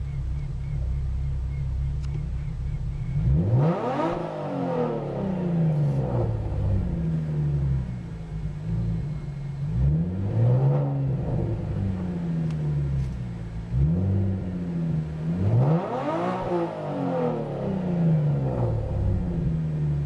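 2010 Chevrolet Camaro's 3.6-litre V6 exhaust, running on a ghost cam tune, idling and being free-revved: big revs about three seconds in and again near the end, with shorter blips between, each rising in pitch and falling back to idle.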